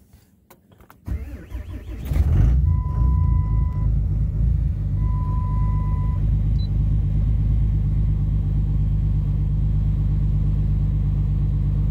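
2008 Dodge Ram's 6.7 Cummins inline-six turbo-diesel cold-started at about 5 degrees: after a few faint clicks the starter cranks for about a second, the engine catches and settles into a steady low idle. Two long electronic beeps sound a few seconds into the idle.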